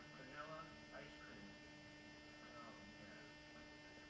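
Near silence with a steady electrical hum. Faint, indistinct voices come in during the first second or so.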